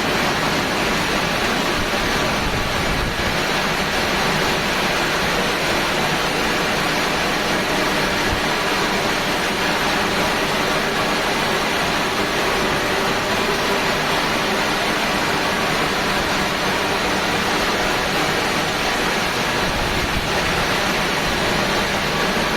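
High-pressure water spraying steadily from a Risense HP-232 single-arm touchless car wash machine, an even rushing hiss with a faint steady hum underneath.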